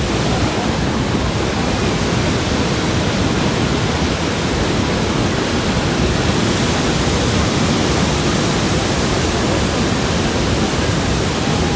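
Niagara Falls water pouring down at close range: a loud, steady rush of falling water that does not let up.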